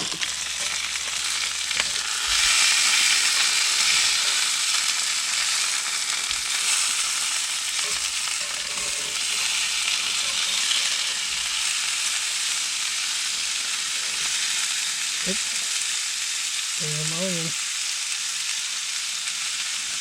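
Bratwursts and onions, with Spam and onions in a second skillet, frying on a camp burner: a steady sizzle that grows louder about two seconds in.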